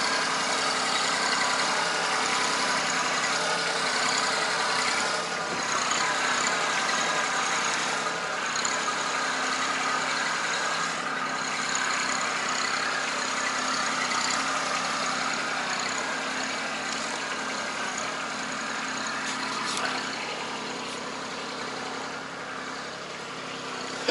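Engine of a tractor with a front-end loader running steadily, getting a little quieter after about 20 seconds.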